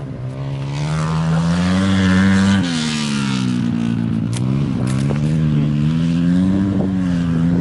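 Motorcycle engine racing on an ice track. The pitch climbs for about two and a half seconds, drops abruptly, then rises and falls with the throttle.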